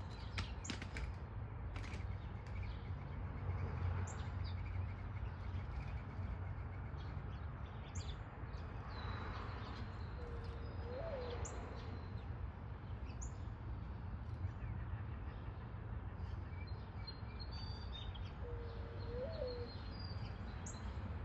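Wild birds calling: scattered short high chirps throughout, and twice a low note of about a second that rises slightly at its end. Under them runs a steady low rumble.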